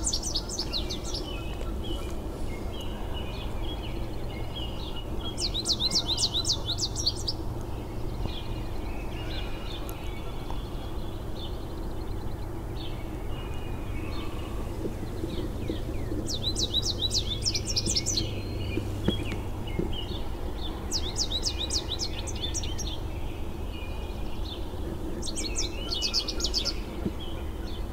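A songbird singing: short bursts of rapid high notes, five phrases spaced several seconds apart, over a steady low background hum.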